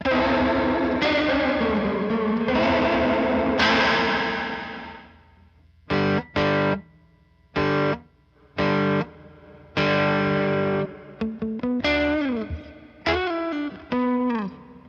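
Electric guitar played through a Big Ear Pedals Albie multi-effect pedal on a vibrato-and-reverb preset. Four long ringing chords come first, one with a wavering pitch, then short choppy chords, then single notes that slide down in pitch near the end.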